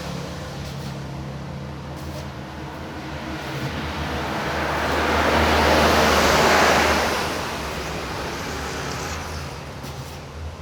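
A road vehicle passing: a steady low engine hum, with a broad whoosh that builds to its loudest about six seconds in and then fades.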